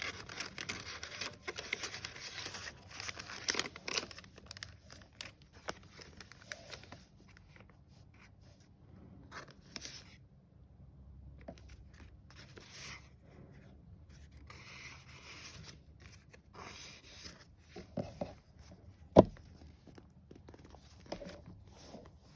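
Paper pages of a handmade junk journal rustling and crinkling as they are handled and turned. The rustle is dense for the first four seconds, then comes in short scattered bursts, with one sharp knock near the end.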